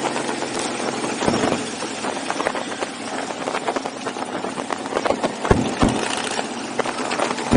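Motorcycle engines running at low speed among a pack of bikes, quieter than a full rumble, with a few sharp knocks scattered through.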